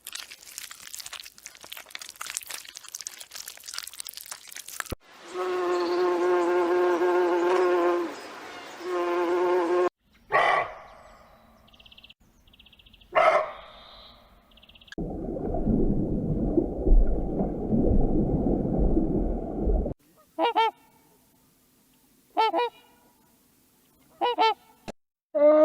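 A string of different animal sounds from short cuts: a noisy stretch, a long held call with a break near the middle, two short sharp calls, five seconds of low rumbling noise, then four short pitched calls about two seconds apart, which may be a goose or duck calling.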